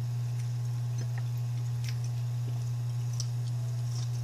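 Close-up eating sounds: small clicks and crackles of chewing rice and fish and of a spoon working in a small bowl. Under them runs a steady low hum, the loudest thing heard.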